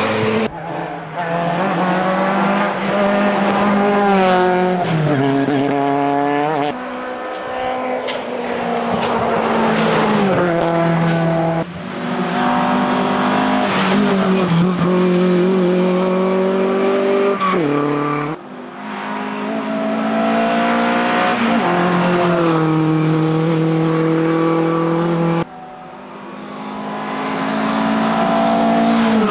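Ford Anglia 105E hillclimb car's engine driven hard, its pitch climbing under acceleration and dropping back at each gear change, over several passes; the sound breaks off and jumps five times where clips are joined.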